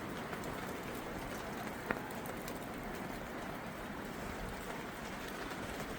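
Steady hiss of rain and wind in a storm, with a single sharp tap about two seconds in.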